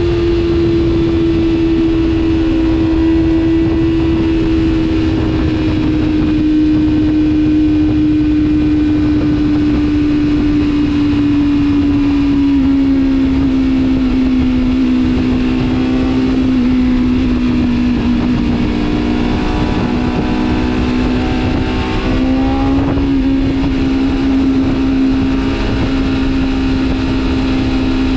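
Superbike engine running at high revs under heavy wind rush, its pitch sinking slowly as the bike eases off, with a short rise in revs about three-quarters of the way through.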